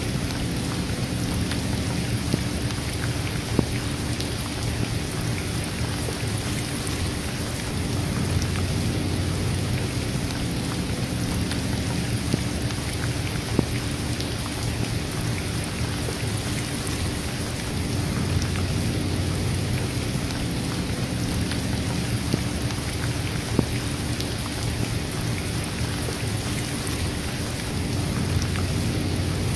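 Steady rain, with a continuous low rumble underneath and a few sharper drop hits scattered through it.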